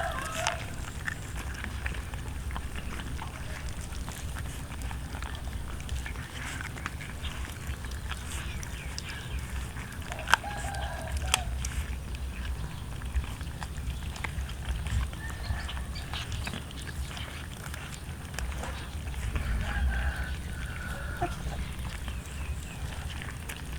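Short animal calls a few times over a steady low rumble, with a couple of sharp clicks about ten seconds in.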